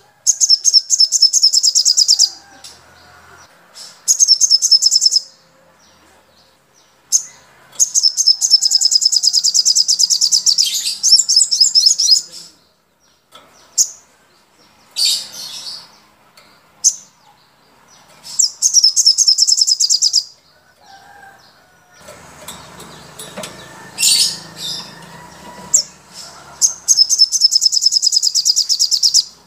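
Caged songbirds singing in bursts of very rapid, high trilling, each burst about two seconds long, separated by short pauses, with a few sharper single calls in between.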